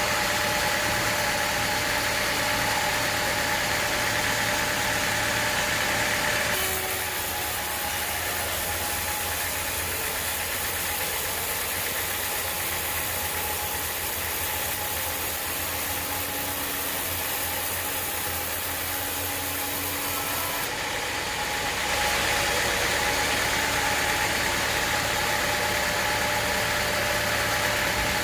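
Sawmill machinery running steadily with a constant engine-like drone. About six seconds in, the sound switches abruptly to a brighter hiss with less low drone, then switches back near the end.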